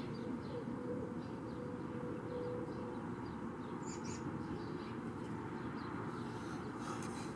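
Outdoor ambience of small birds chirping, short repeated calls scattered throughout, over a steady low background noise.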